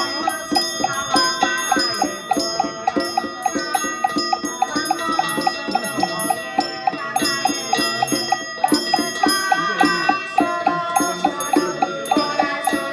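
Ritual music with ringing bells over a rapid, steady percussion beat of about four strikes a second.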